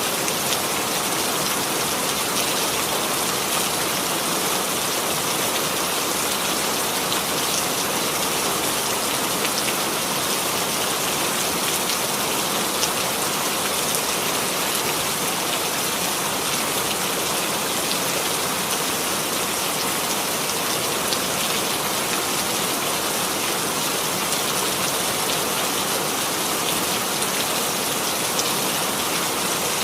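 Steady rain sound effect: rainfall on a surface, an even hiss with scattered drop ticks.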